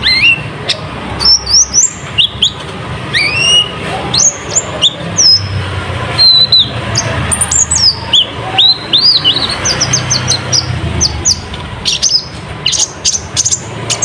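A kolibri ninja sunbird singing hard: a rapid, unbroken run of short, high chirps and quick up-slurred whistles, the lively 'gacor' song used as a lure to set other birds of its kind singing.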